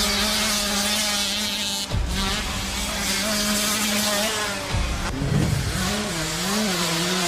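Dirt bike engine running at a steady pitch, broken by two abrupt cuts, then rising and falling in pitch near the end as it is revved.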